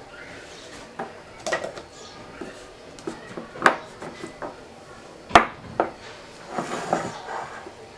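Kitchen utensils and dishes clinking and knocking against each other in a series of separate sharp clinks, the loudest about five seconds in, followed by a short spell of scraping and rustling near the end.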